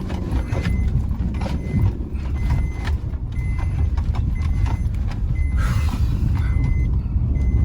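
Car driving slowly over a rough, rocky dirt road: a low rumble with repeated knocks and clatter from the rough surface, and a short high beep repeating about once a second. A brief rushing noise comes about six seconds in.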